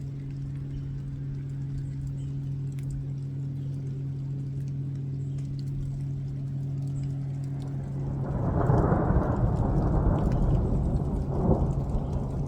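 A steady low hum, then thunder rumbling in loudly about eight seconds in, with a second roll a few seconds later.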